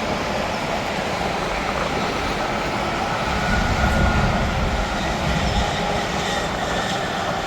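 Interstate highway traffic: steady tyre and engine noise of passing trucks and cars, swelling for a couple of seconds about halfway through as a heavy truck goes by.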